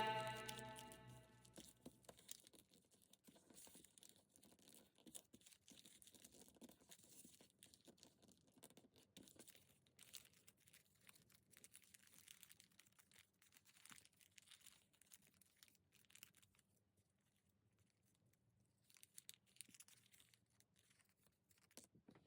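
Near silence with faint rustling and a few soft taps of paper being handled and creased while folding origami. Background music fades out in the first second.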